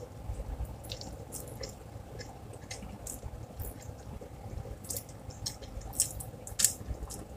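A person eating with bare hands: soft, wet chewing and mouth clicks, with fingers squishing together rice and fried salmon. Scattered short clicks throughout.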